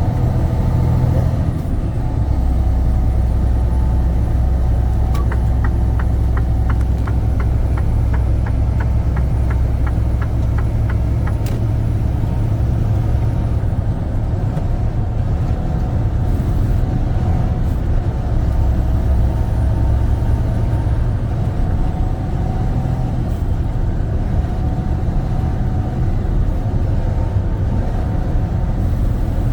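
Heavy truck heard from inside the cab while driving: a steady low engine and road rumble. For about six seconds, starting some five seconds in, a run of quick, even clicks sounds, about three a second.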